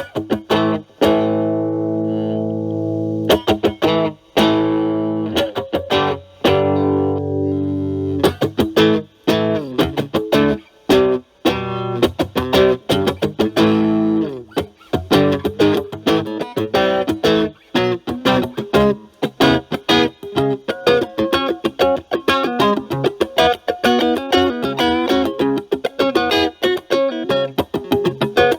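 Electric guitar, a Fender Stratocaster with single-coil pickups, played through a Metal Pedals Rawhide overdrive pedal set to about gain 9 into a Marshall Valvestate amp on its clean channel, giving an overdriven tone. It opens with a few held, ringing chords, then moves into faster picked single-note phrases that grow busier towards the end.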